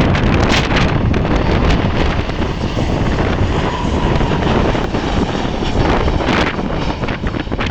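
Strong gusting wind buffeting the microphone, with the engines of a landing jet airliner running under it.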